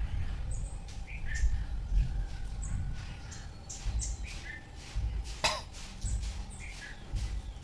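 Birds chirping, short calls repeated every second or so, over a low rumble, with one sharp click about five and a half seconds in.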